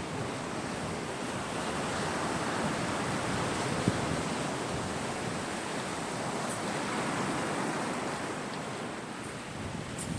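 Sea waves washing onto a shore: steady surf that swells and eases. A single sharp click about four seconds in.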